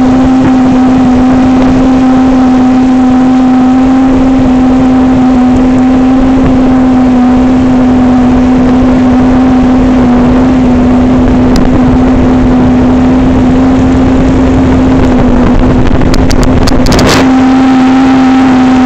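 Concorde 400 motorboat's engine running loud and steady at constant speed, with water and wind noise. A brief crackling burst and a short dip in the engine note come near the end.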